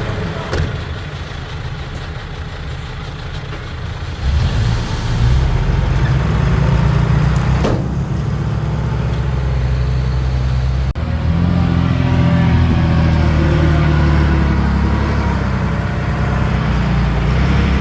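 Heavy diesel engine of earthmoving machinery running hard under load. It grows louder about four seconds in and cuts out for an instant near eleven seconds, then runs on.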